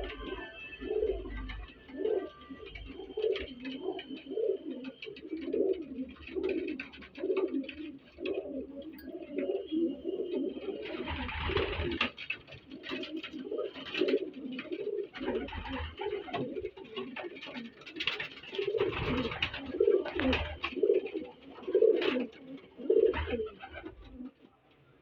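Domestic pigeons cooing: low, rounded coos repeating about twice a second throughout, with a few short bursts of noise about midway and later.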